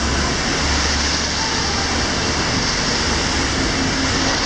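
Steady hiss of rain on a wet street over the low rumble of a London bus idling at its stop.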